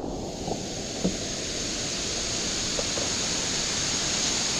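Steady rushing of rainwater pouring down through a cave, with a faint knock about a second in.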